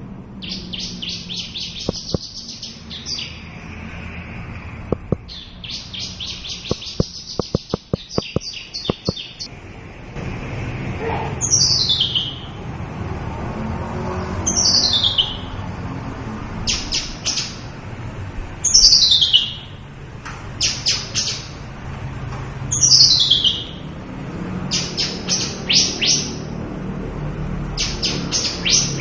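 Javan bush lark singing in fast, buzzy trilled phrases, broken by clear notes that sweep down in pitch every few seconds. A quick string of sharp clicks comes about seven to nine seconds in.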